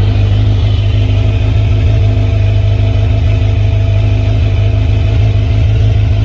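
Kawasaki Z900 motorcycle's inline-four engine idling steadily after a cold start, its pitch holding level.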